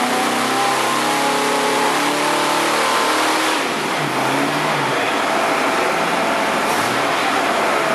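1962 Studebaker 289 V8 with a four-barrel carburetor running on an engine dyno at speed. About halfway through, its pitch drops as the revs come down, and it carries on running at a lower speed.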